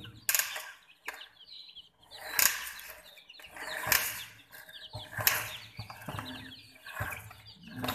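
Baby chicks peeping continuously in short high chirps, broken by about five brief rustling bursts.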